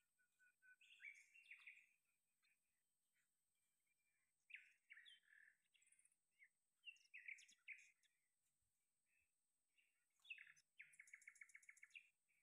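Faint bird calls: several short chirping phrases, ending in a rapid trill of about eight notes a second near the end.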